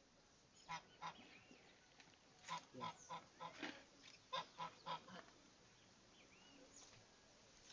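Bird calling in a run of short, repeated calls: two about a second in, then a quicker series of about eight from two and a half to five seconds in.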